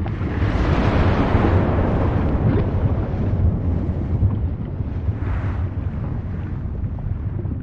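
Volcano erupting: a continuous deep rumble, with a sudden surge of hissing noise right at the start that swells for a couple of seconds and fades, and a smaller surge about five seconds in.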